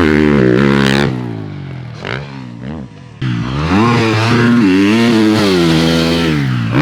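Dirt bike engine revving hard on the track. It backs off the throttle about a second in with a few short blips, then opens up again at about three seconds into a long pull, the pitch climbing and wavering.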